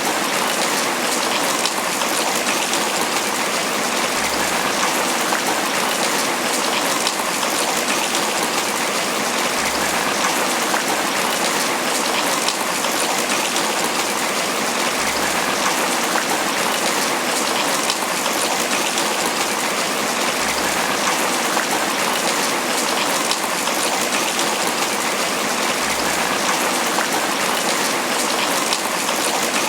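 Steady tropical rain falling on banana leaves, an even, unbroken hiss of drops.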